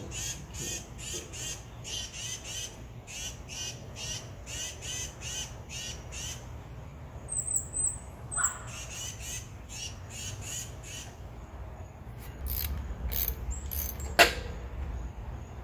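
A bird calling over and over in short squawking notes, about two or three a second, with a few high chirps in a short pause midway. A sharp click comes near the end.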